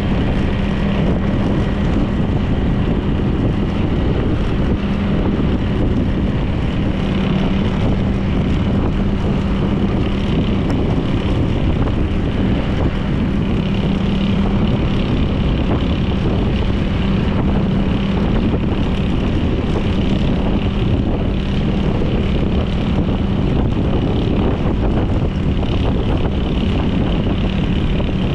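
Honda PCX 160 scooter's single-cylinder engine running at a steady speed, a constant hum under rushing wind and road noise.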